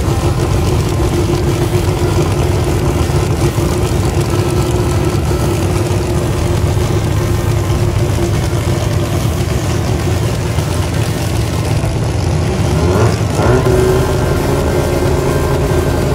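Race car engine idling loudly and steadily, with a couple of quick revs rising and falling in pitch about thirteen seconds in.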